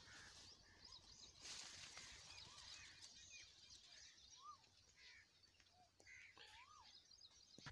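Near silence with faint, scattered bird chirps: a handful of short notes that rise and fall.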